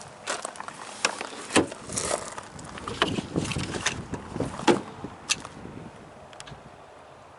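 Irregular clunks, knocks and rustling as someone handles and moves about the wrecked pickup's interior. The noise is busy for about five seconds, then thins to a few faint taps.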